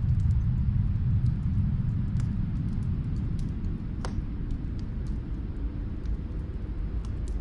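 Snowstorm wind as a steady low rumble that eases slightly over the first few seconds, with faint scattered crackles of a wood fire, one a little sharper about four seconds in.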